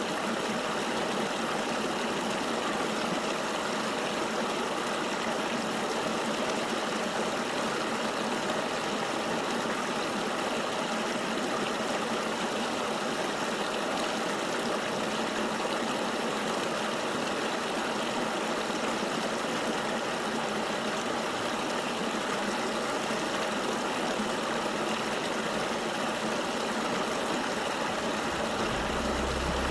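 Flowing river water making a steady, even rushing hiss with no pauses or changes, and almost no low rumble.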